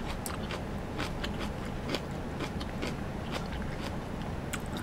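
A person chewing a mouthful of shrimp close to the microphone: irregular small clicks and smacks of the mouth.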